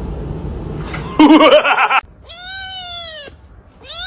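A cat meowing twice: two long, drawn-out meows, each rising and then falling in pitch. Before them, about a second in, comes a short, louder, wavering call that stops abruptly.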